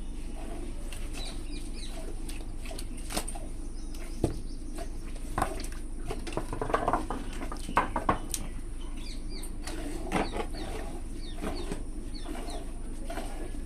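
Small birds chirping in short high notes, with a few sharp knocks and clatters over a steady low hum.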